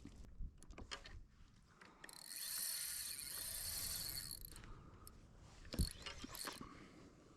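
Spinning reel's drag buzzing for about two and a half seconds, as a hooked skipjack tuna pulls line off, with scattered reel clicks before and after. A single sharp knock sounds near the end.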